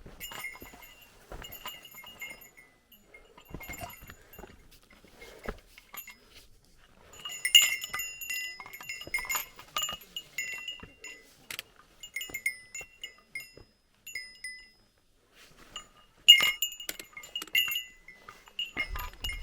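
A small metal bell jingling in irregular bursts, each shake giving a few short rings at the same bright pitches. It is loudest about halfway through and again near the end.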